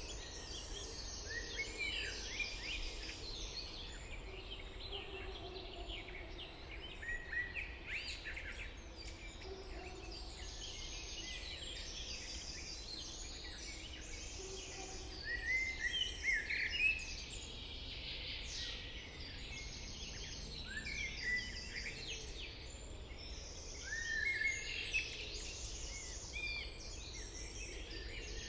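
A chorus of songbirds singing and calling over one another, in short trilled and chirping phrases. There are louder clusters of song about halfway through and again near the end, over a steady low rumble.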